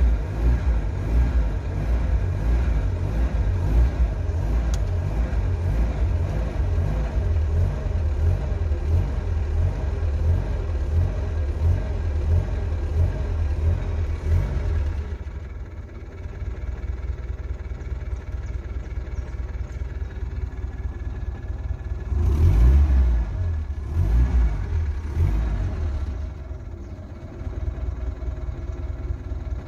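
Chevrolet Opala engine heard from inside the cabin. It runs at raised revs for about the first half, then drops back to idle, with two or three short blips of the throttle later on.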